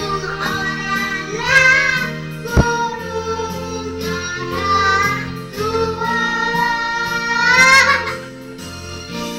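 A child singing a melody over instrumental backing music, with one sharp knock about two and a half seconds in.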